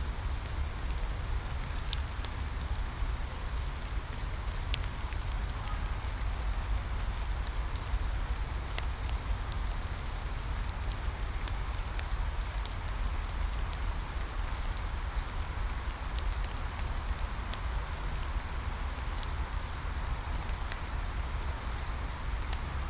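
Steady rain falling, mixed with a crackling bonfire, over a deep low rumble. Sharp ticks and crackles are scattered all through.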